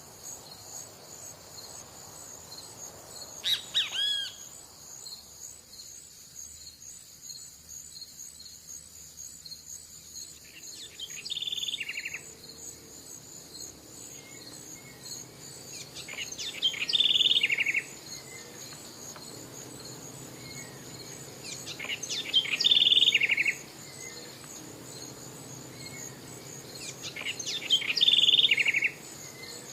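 A steady high chorus of insects, like crickets, under a songbird that repeats the same short phrase four times, about every five to six seconds, each phrase ending in a quick trill. A couple of brief calls come near the start.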